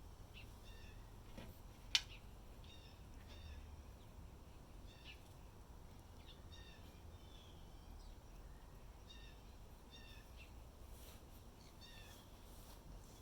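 Faint, short, high-pitched animal chirps repeating irregularly throughout, with one sharp click about two seconds in.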